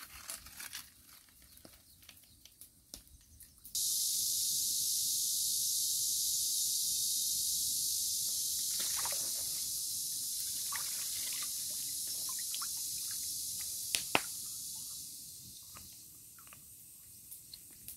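Food sizzling in a hot pan: a steady hiss that starts abruptly a few seconds in and fades near the end. Light clicks and knocks come before it, and two sharp clicks come shortly before it fades.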